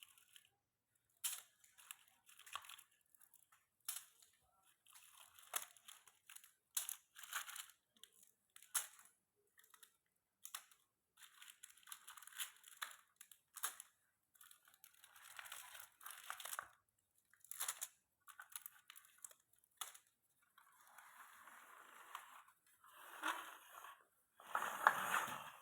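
Irregular crinkling and crunching of wrapped candies being handled and loaded, in short bursts with gaps between, louder near the end.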